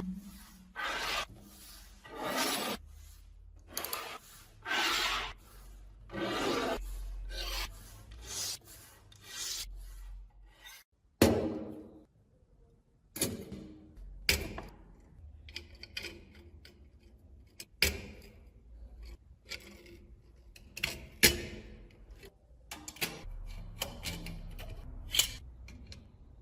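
Hand rubbing and abrasive scraping on parts of an antique kerosene lamp, one stroke about every second for the first ten seconds. After a sharp knock about halfway through, fainter scraping follows, broken by small clicks and knocks from parts being handled.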